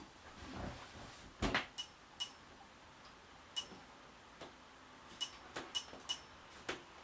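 A run of about nine sharp, irregular clicks or taps over some five seconds, several with a brief high ring, with a soft swish just before the first of them. Underneath is a faint steady hiss.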